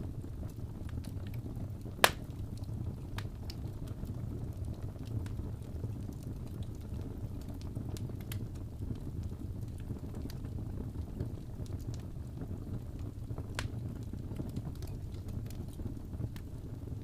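Wood fire burning in a fireplace: a steady low rumble of flames with scattered light crackles, and a loud pop about two seconds in and another near the end.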